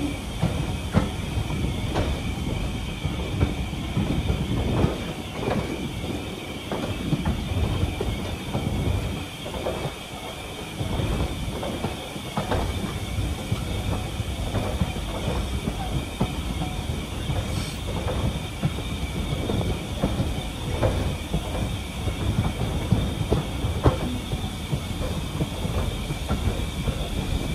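Passenger coach of a steam heritage train running along the line, heard at an open window: a steady rumble with irregular clicks and knocks from the wheels over the track, and a steady high ringing.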